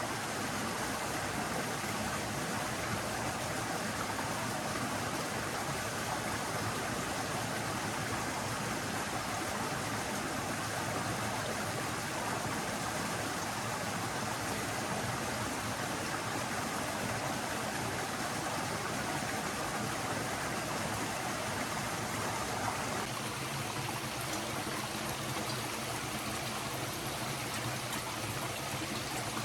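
Forest stream flowing, a steady rushing of water whose texture shifts slightly about three-quarters of the way through.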